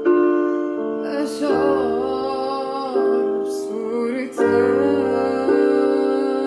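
Music: a woman singing a slow, wavering melody over sustained keyboard chords that change every second or two.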